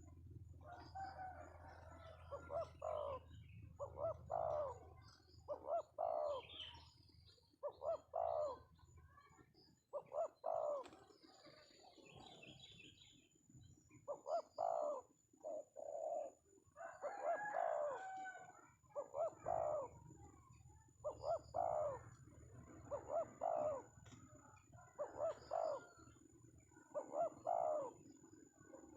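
Spotted dove (tekukur) cooing over and over, a short phrase about every two seconds with a brief pause partway through; a young bird with a big voice.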